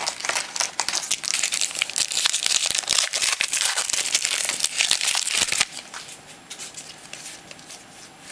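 Plastic wrapper of a trading card pack being crinkled and torn open, a dense crackling that stops abruptly about five and a half seconds in, followed by softer handling of the cards.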